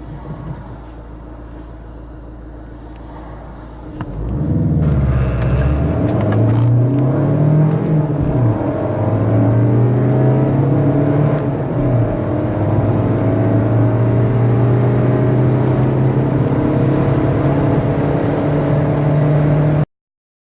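VW Golf engine idling, then accelerating hard from a standstill about four seconds in, revving up through the gears with short breaks at each gear change. The sound cuts off suddenly near the end.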